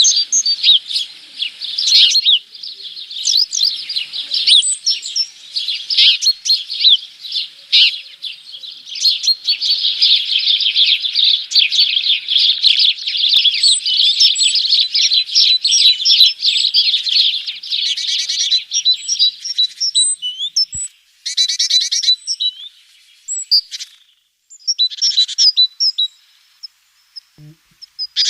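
Small birds chirping and twittering in a dense, continuous chatter, several birds at once; after about 20 seconds the calls thin out into separate chirps with short pauses, including a couple of brief rapid trills.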